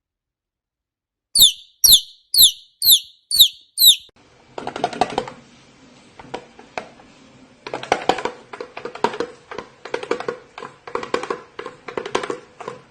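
Parrot giving five short, high chirps that fall in pitch, about two a second, followed a few seconds later by a long run of rapid, irregular clicking and scratchy chatter.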